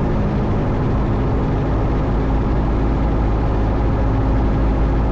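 Cabin noise of a 1972 Cessna 172 Skyhawk on final approach with full flaps: its four-cylinder engine and propeller drone steadily with the engine throttled back, under a hiss of airflow.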